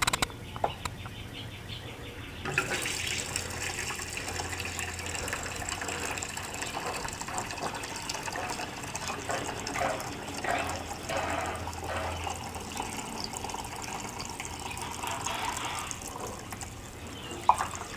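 Gasoline being poured into a Lawn-Boy mower's fuel tank: a steady pour that starts about two and a half seconds in and lasts about fourteen seconds.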